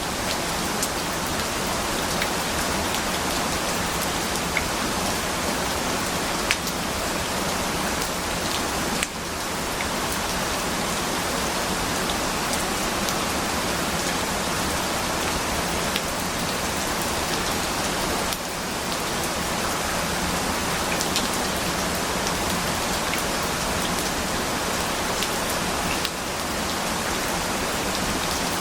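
Steady rain falling on surfaces, a dense even hiss with scattered individual drop ticks. The level briefly dips three times, about every eight or nine seconds.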